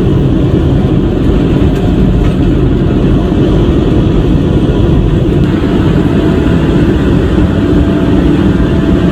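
Steady, loud, low rumble of a moving truck's engine and road noise.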